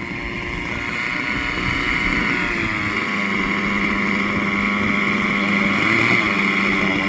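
Glow-fuel (nitro) engine of a model helicopter running, growing louder over the first couple of seconds and then holding steady, with a steady high-pitched tone.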